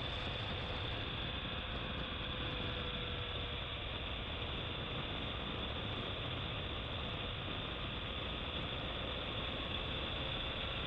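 BMW R1200GS Adventure's flat-twin boxer engine running at a steady cruise while riding, mixed with steady wind noise on the microphone.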